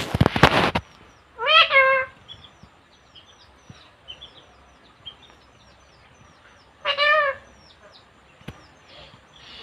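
Pet parrot calling: a harsh burst at the start, then two loud, pitched squawks about a second and a half in and near seven seconds, with faint short high chirps between them.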